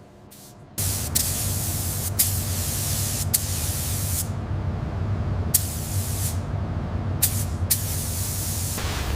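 Paint spray gun hissing in repeated bursts of about a second each as the trigger is pulled and released, laying coats of blue paint on a car body, over a steady low hum.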